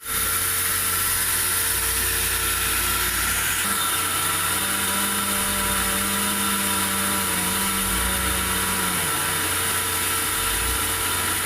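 Sawmill machinery running with a steady mechanical drone, a low hum joining in for a few seconds in the middle.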